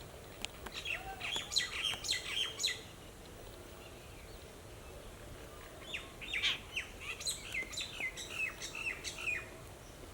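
Songbirds chirping in two bursts of quick, falling notes, the first about a second in and the second about six seconds in.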